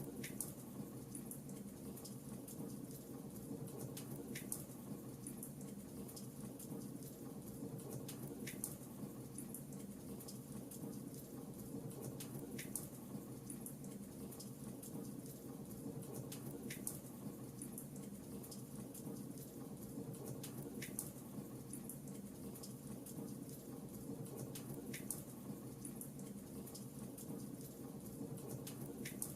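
Fireplace fire crackling faintly: a soft steady rush with small scattered snaps, and a sharper pop recurring about every four seconds.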